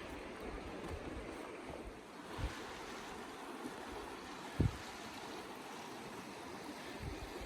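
Steady rushing of river water, with two brief low thumps, about two and a half and four and a half seconds in.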